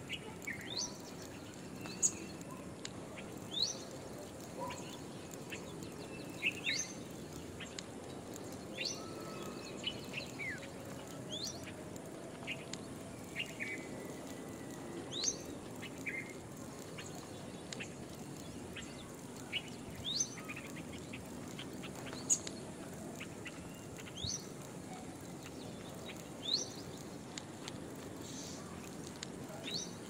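Short, high bird chirps, mostly quick rising sweeps, repeated every second or two over steady outdoor background noise.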